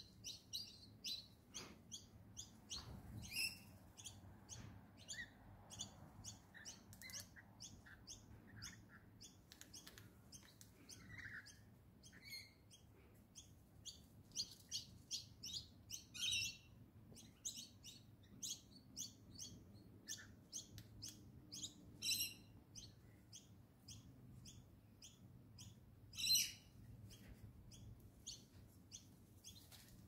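Birds chirping in a rapid, steady series of short high chirps, about three a second, with a few louder calls about halfway through and twice more near the end.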